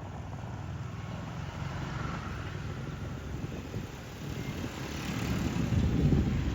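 A motor vehicle going by on the street, its low rumble growing louder over the last couple of seconds.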